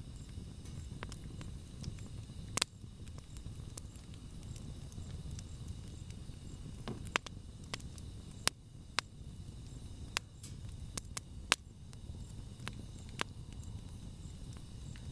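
Wood campfire crackling, with sharp irregular pops and snaps over a low steady rush of burning.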